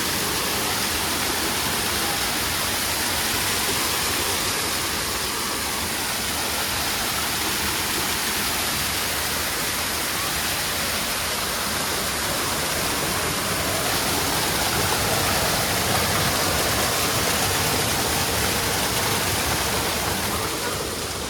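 Waterfall pouring and splashing steadily, a constant rushing noise with no change in level.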